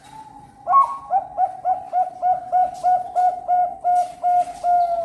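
Bangkok-type perkutut (zebra dove) singing: a held opening coo, then a fast, even run of about fourteen short coos, some three a second.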